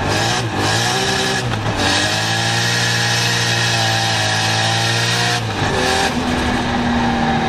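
Toyota Chaser drift car's engine revving hard under throttle, its pitch dipping and climbing, then held high and fairly steady for a few seconds before dropping and rising again near the end.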